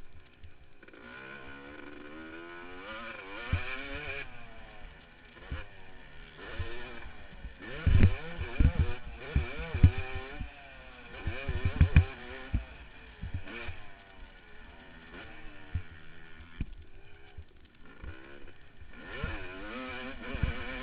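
Yamaha YZ250 two-stroke motocross engine ridden hard on track, revving up and falling off again and again as the rider works the throttle, heard from the rider's helmet. Several heavy thumps come through from about 8 to 12 seconds in.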